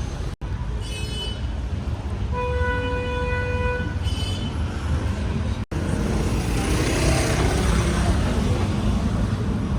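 Street traffic with car horns: a brief high beep about a second in, then a steady horn blast of about a second and a half, then another short toot. After a sudden cut, a steady wash of traffic noise takes over.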